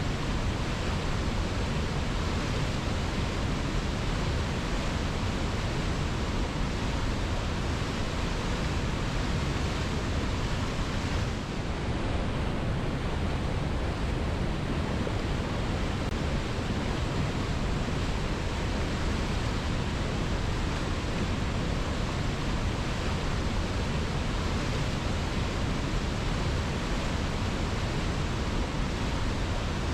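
Waterfall: water tumbling onto rocks in a steady, even rush, with a brief slight dip in level about eleven seconds in.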